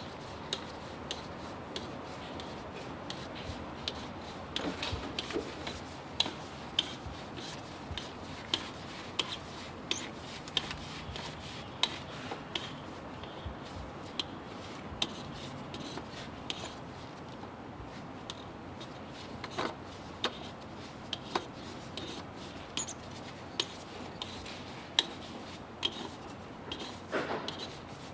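Hand work on a truck's spin-on filter as it is unscrewed by hand: irregular light clicks and rubbing, about one or two a second, with a few louder knocks.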